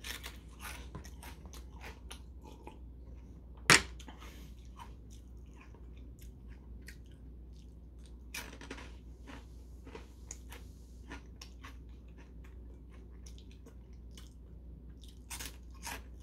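Chewing and crunching of crisp Nongshim Saewookkang Black shrimp crackers, close to the mouth: a run of short crunches with one sharp, loud crunch about four seconds in.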